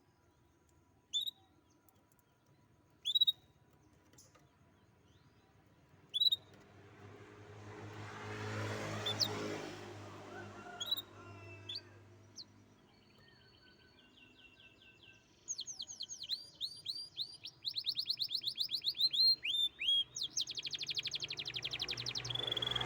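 Canary giving a few single sharp chirps, then about halfway in breaking into fast trilled song: rapid repeated notes and rolls. A low rumble swells and fades in the background around the middle.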